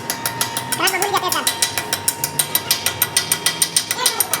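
Rapid, evenly spaced metallic clicking, about seven clicks a second, as from a ratcheting mechanism.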